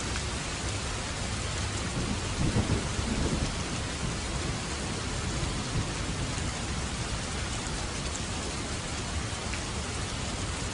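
Steady rain falling, with a brief low rumble of thunder about two seconds in.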